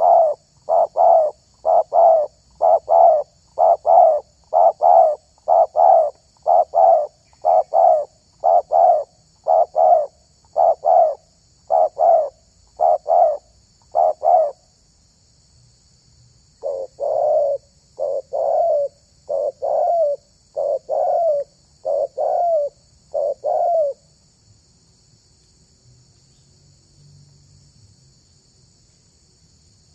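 Spotted dove (tekukur) cooing: a long run of short, evenly repeated coos, a pause of about two seconds, then a second run that stops about six seconds before the end.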